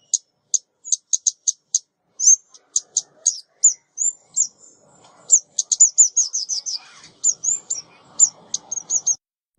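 A small songbird, the bird Vietnamese call ốc mít, giving quick series of high, thin chips and short slurred notes, with a fast rapid run of notes in the middle; the calls stop abruptly near the end.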